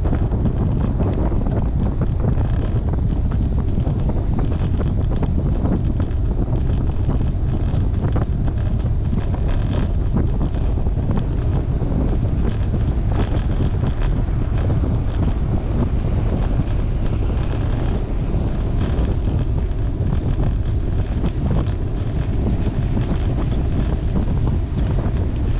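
Wind rushing over the microphone on a moving bicycle: a steady low rumble of buffeting air.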